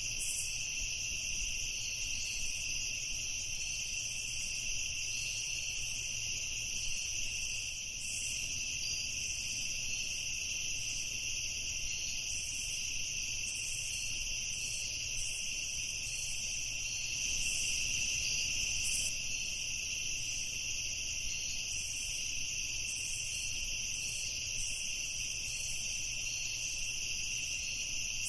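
Night chorus of crickets, a steady high-pitched trilling that goes on without a break.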